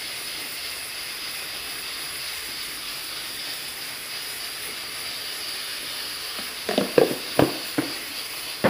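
Chicken pieces frying in an aluminium pot with a steady sizzle. A few short knocks come near the end as a seasoning container is handled.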